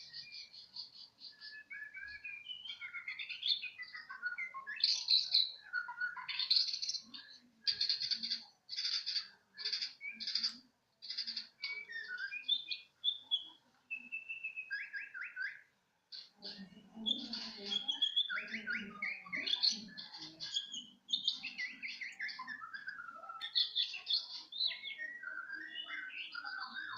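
Young bahorok songbird chirping and singing in quick, varied high phrases of chirps and trills, with short pauses between bursts.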